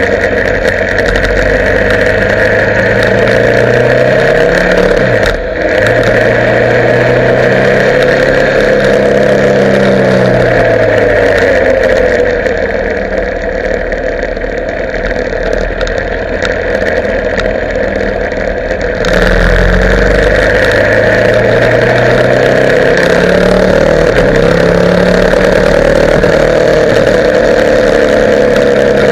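Motorcycle engine running on the move, its pitch sliding up and down with throttle and gear changes. It is quieter for several seconds in the middle, then picks up again.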